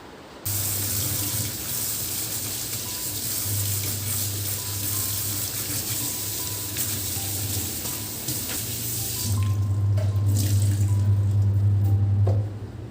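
Water running hard from a tap into a sink. It comes on suddenly about half a second in and is shut off after about nine seconds. A low hum and a few short knocks follow.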